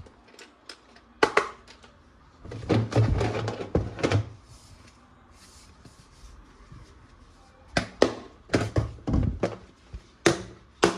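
Hard plastic toy parts being handled: scattered knocks, clicks and thunks. A few come about a second in, a run around three to four seconds in, and more in the last few seconds.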